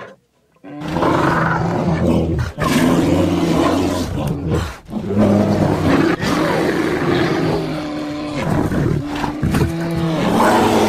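A large wild animal growling and roaring: a run of long, deep calls that starts just under a second in after a brief silence.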